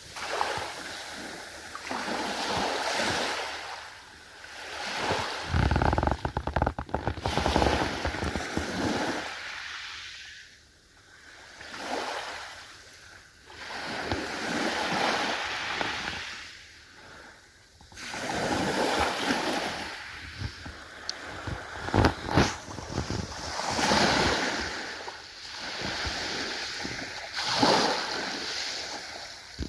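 Ocean waves washing in and ebbing, the surf surging and falling back every few seconds. There is a brief low buffet about six seconds in, and a few sharp crackling spikes, the strongest around twenty-two seconds.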